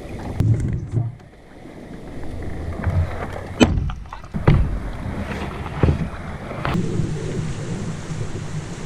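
Canoe being paddled, with water sounds and about six sharp knocks of paddle or gear against the hull. Wind rumbles on the microphone, and a steady hiss sets in near the end.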